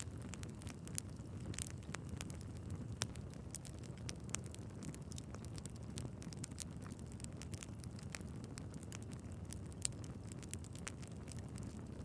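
Wood fire burning in a fireplace: a steady low rumble of flames with irregular sharp crackles and pops from the logs, a few louder pops scattered through.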